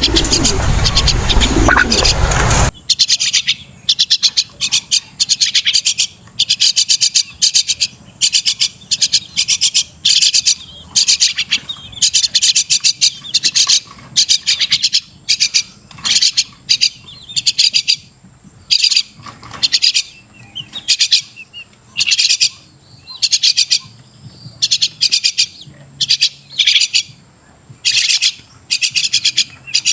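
Crested myna calling: a long run of short, high-pitched chattering phrases repeated about twice a second. The first few seconds are covered by a loud harsh noise.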